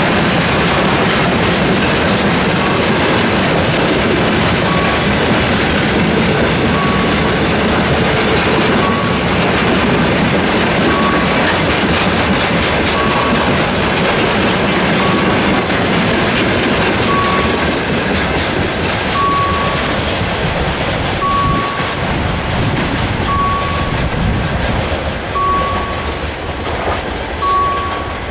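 Freight train of hopper wagons rolling past at speed, with a steady rumble and clickety-clack of wheels over the rail joints; the noise falls away in the last several seconds as the final wagons pass. A level-crossing warning bell dings about every two seconds, heard more clearly as the train noise fades.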